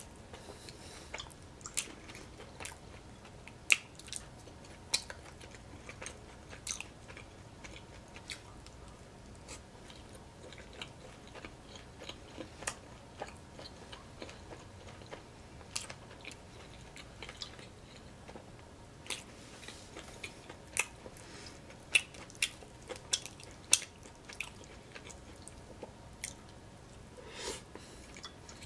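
Close-miked chewing and biting of Indian food eaten by hand, with irregular sharp mouth clicks and smacks, the loudest about four seconds in and again past the middle.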